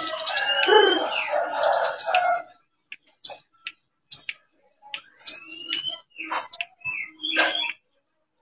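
Sogon birds calling, played as a lure call: a dense burst of harsh chattering for about the first two and a half seconds, then scattered short chirps with a few rising whistles.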